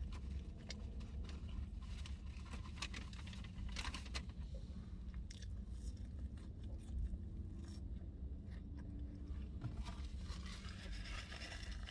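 A person biting and chewing food, with scattered short clicks over a steady low rumble.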